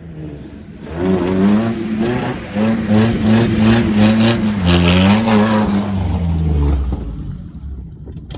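Truck engine revving hard, its pitch rising and falling in waves, from about a second in until it eases off near the end.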